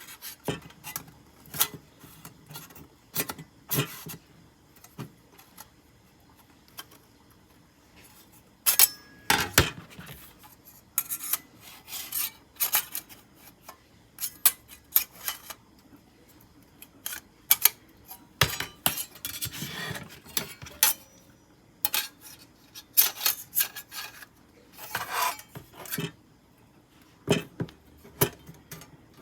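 Metal camp gear being handled: irregular clinks and knocks with stretches of scraping and rubbing metal.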